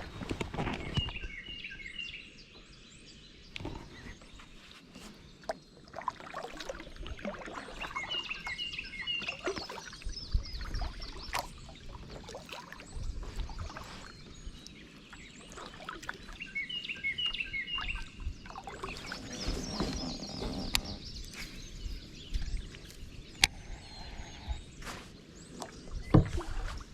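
A songbird sings a short chirping phrase three times, about eight seconds apart, over wind rumble on the microphone. Scattered knocks and splashes come from the kayak on the river.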